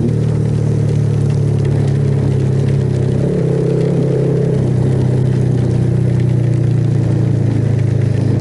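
Motorcycle engine running steadily while riding, recorded on board; its note dips slightly about three seconds in and then holds.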